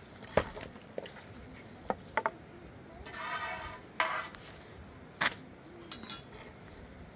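A series of sharp clinks and knocks of hard objects, about six spread irregularly, with a brief scraping rush a little after three seconds in.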